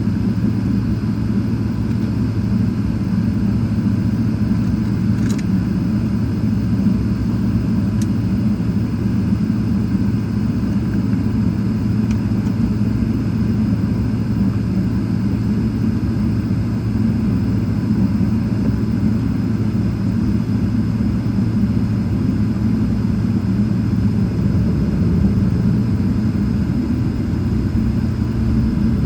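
Steady low rumble heard inside the cabin of a Boeing 777-300ER with its engines running, even and unchanging, with a couple of faint ticks.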